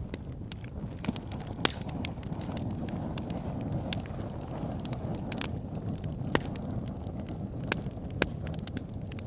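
Wood fire burning in a fireplace: a steady low rush of flames with irregular sharp crackles and pops from the burning logs, a few louder snaps among them.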